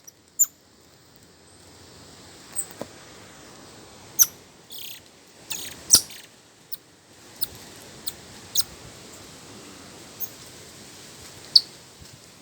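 Birds chirping: scattered short, sharp, high calls at irregular intervals, a few of them loud, over a faint steady hiss of outdoor background.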